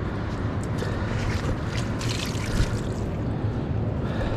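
River water sloshing and trickling around a large carp held in the shallows while it is revived before release, with small splashes over a steady low rumble.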